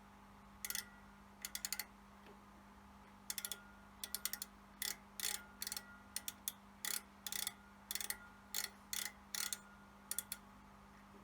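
Repeated bursts of quick metallic clicking, a few clicks at a time and roughly twice a second, like a ratchet or small mechanism being worked by hand. A steady low hum runs underneath.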